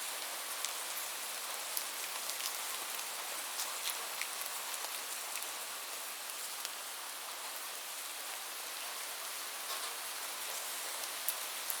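Steady rain: an even hiss of rainfall with scattered sharp ticks of single drops striking close by.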